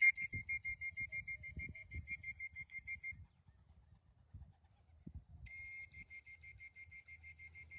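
A whistle blown in a fast pulsing trill, about six pulses a second. It stops about three seconds in and starts again a couple of seconds later: a fancier whistling racing pigeons down to the loft.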